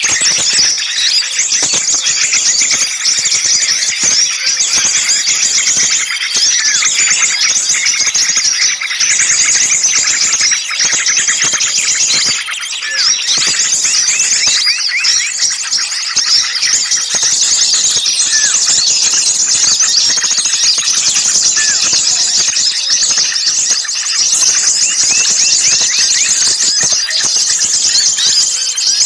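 Bird-lure recording: a dense, noisy chorus of many small songbirds chirping and chattering at once, high-pitched and without a break.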